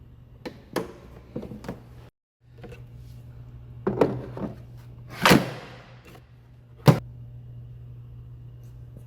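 Parts of a Honda HRN-BV battery lawn mower being handled: a string of clicks and knocks, then two louder knocks with a rustle and one sharp latch-like click, over a low steady hum.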